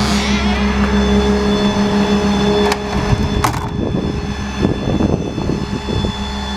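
Steady hum of an idling engine with a faint high whine. Two sharp clicks come about three seconds in, followed by irregular scuffs and knocks.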